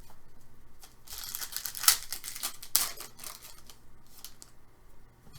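Trading-card packaging being handled and torn open: a run of crinkling and tearing with sharp clicks, the loudest about two seconds in, then a few lighter rustles.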